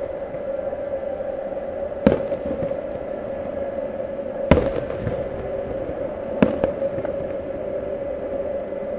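Aerial firework ball shells bursting: three booms about two seconds apart, the middle one loudest, over a steady hum.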